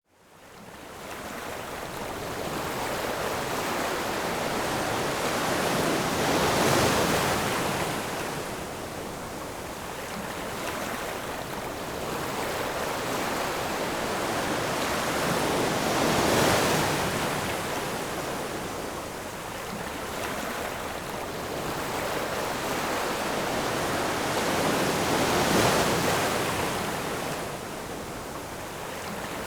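Ocean surf: waves breaking and washing in. The sound swells to a peak three times, about every nine seconds.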